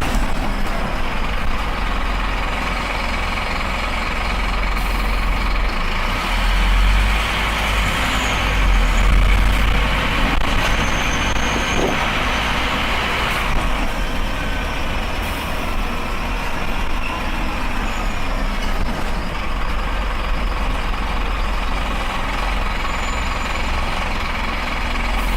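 Scania Esteem coach running: a steady engine drone with road and mechanical noise, growing louder for a stretch about 7 to 9 seconds in.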